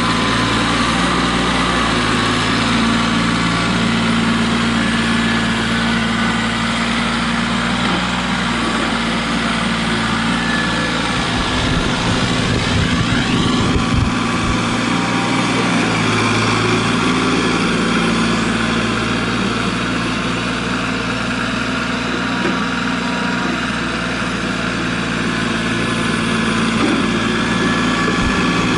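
Tractor engine running steadily while plowing snow, its pitch shifting slightly a few times, with a brief rising whine and some low rumbling about halfway through.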